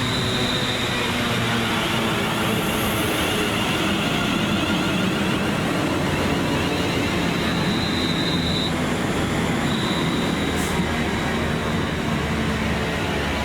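Train running through the station: a steady rumble of wheels on the track with a thin high whine that drops out for about a second partway through.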